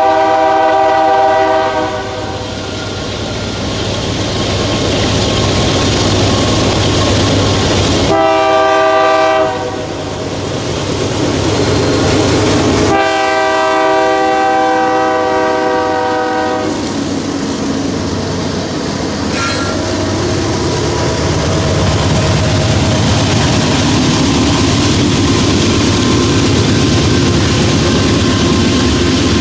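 A diesel locomotive's air horn sounds three times over the steady rumble and wheel clatter of a passing train: a blast that ends about a second in, a short one about eight seconds in, and a longer one at about thirteen seconds.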